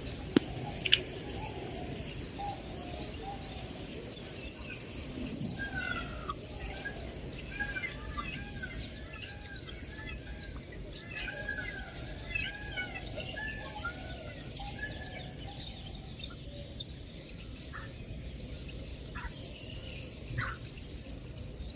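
Several birds chirping and calling, with a dense run of short repeated calls in the middle, over a steady high-pitched hiss.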